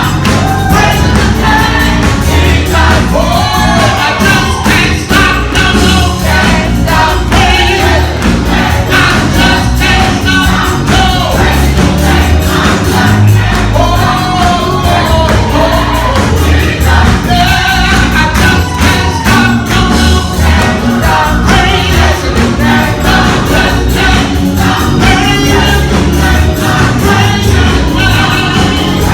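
Gospel-style music: a choir singing over a band with a heavy bass beat.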